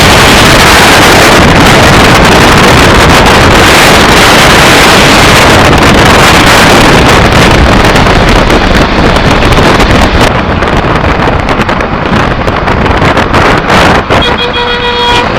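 Turbo-diesel engine running hard and very loud, overdriving the recording, then easing off after about ten seconds. A short steady whistle sounds near the end.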